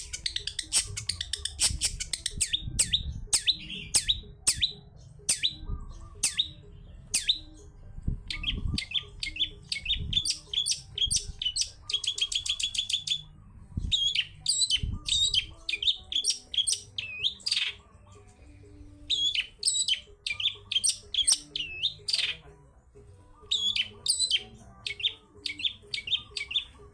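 Long-tailed shrike (cendet) singing vigorously: a dense run of sharp chips, rattles and quick trills, coming in bursts with short pauses.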